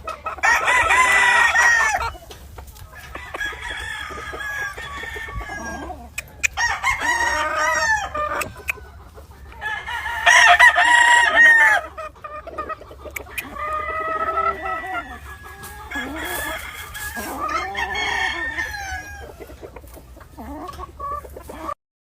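Gamefowl roosters crowing one after another: two loud, long crows, one right at the start and another about ten seconds in, with fainter crows and hens clucking in between.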